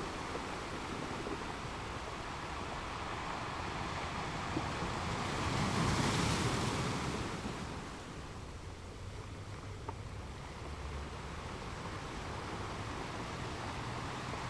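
Ocean waves washing onto a shore: a steady wash of surf, with one wave swelling and breaking about six seconds in, then easing back.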